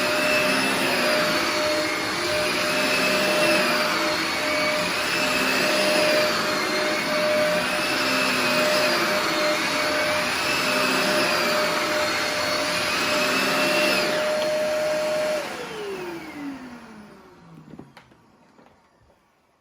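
Hoover WindTunnel Dual V upright vacuum running loud with its brush roll, a steady whine under higher tones that rise and fall about every two seconds. About 15 seconds in it shuts off and the motor winds down with a falling whine to a stop.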